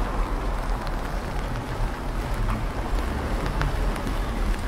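Rain falling outdoors, with scattered sharp drips over a steady low rumble.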